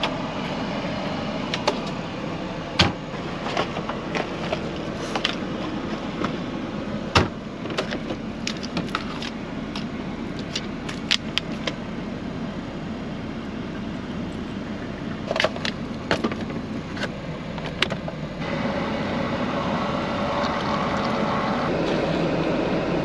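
Coffee things being handled in a semi truck's cab: many short clicks and knocks over a steady low hum. A louder steady rushing noise comes in about three-quarters of the way through.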